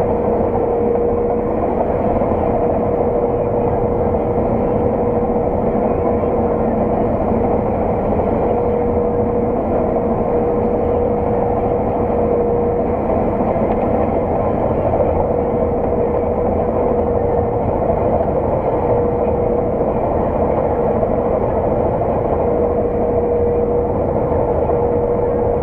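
Steady drone of a working farm harvest machine heard from inside its cab, with a constant whine running through it.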